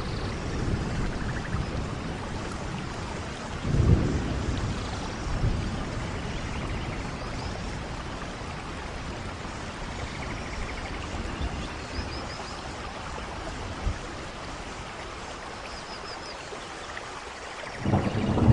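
Steady rain falling in a forest, an even hiss with low rumbles, the strongest about four seconds in and another near the end. Faint short high chirps come twice in the last third.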